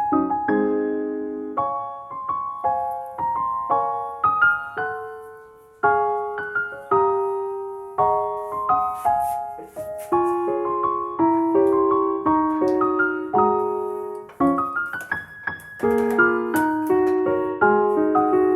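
Background piano music: a slow melody over chords, each note struck and fading away.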